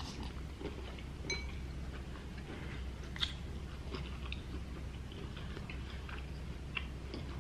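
Close-miked chewing and mouth sounds of people eating: scattered small wet clicks and smacks over a steady low hum, with a short ringing tick about a second in.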